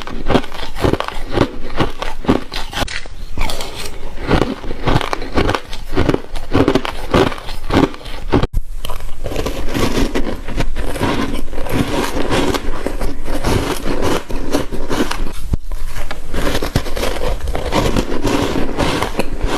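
Close-miked crunching of ice being bitten and chewed, a rapid run of sharp crunches. About eight and a half seconds in there is an abrupt cut, and after it the crunching is denser and more continuous.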